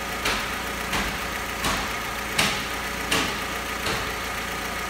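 VW Golf 4's 1.6 litre AKL four-cylinder petrol engine idling steadily. A short, sharp burst comes about every 0.7 s and stops about four seconds in.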